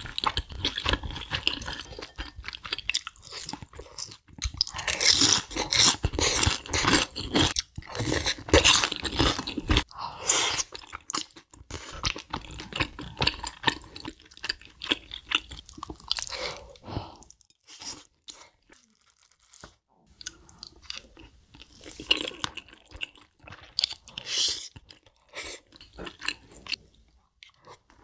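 Close-miked crunching and chewing of crispy battered fried chicken, in dense crackly bursts. It eases to quieter chewing a little past the middle, then crunches again.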